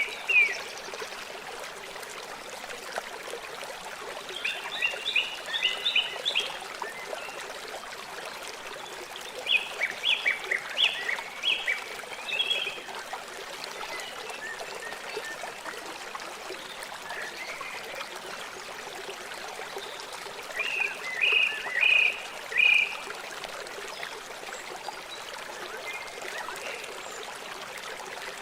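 River water flowing steadily. Four times, an animal breaks in with a burst of rapid high chirps, each lasting a second or two.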